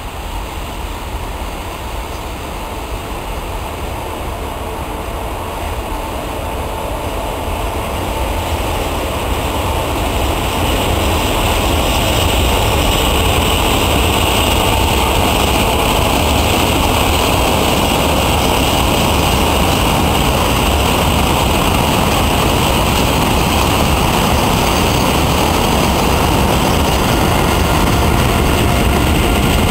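Two electric-hauled freight trains passing: a steady rumble and hiss of steel wheels on rail that grows over the first ten seconds or so, then stays loud as the wagons roll by.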